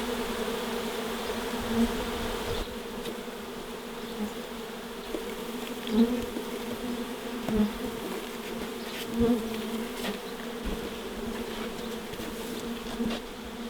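Steady hum of a mass of honeybees from a wild colony being cut out of a wall, agitated and upset by the disturbance. Now and then a single bee buzzes loudly close by.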